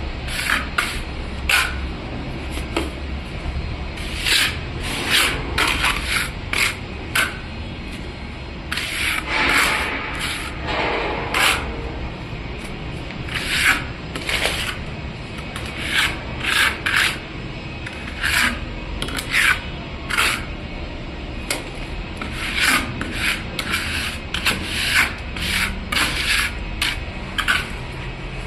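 Repeated rasping, scraping strokes made by hand, coming in uneven bursts about once or twice a second.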